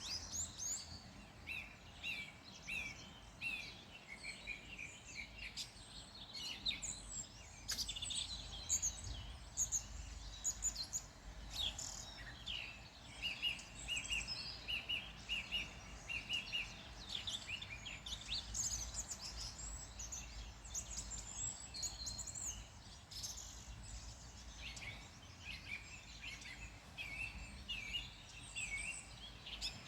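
Several songbirds singing and chirping over one another, a steady stream of quick high notes and short trills, over a faint low rumble.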